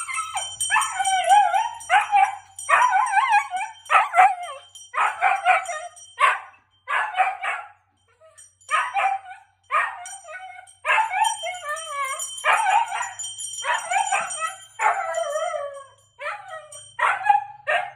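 Siberian husky howling in a string of short, wavering calls with brief pauses between them, set off by a loud bell. A high steady ringing from the bell sounds under the howls for much of the time.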